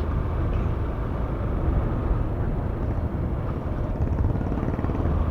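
Motorcycle being ridden on a road: steady engine and wind noise rushing over the microphone, heaviest in the low rumble.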